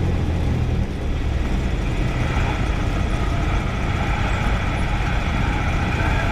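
Light aircraft piston engine running steadily at low power after touchdown on a touch-and-go, with a higher whine joining about two seconds in.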